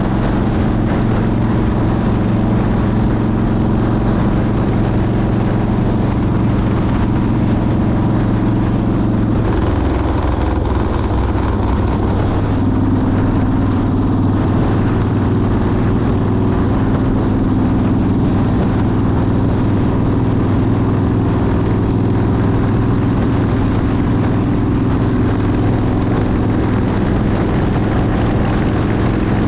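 Motorcycle engine running steadily at cruising speed over a constant rushing noise; about ten seconds in its note shifts to a different pitch and then holds steady again.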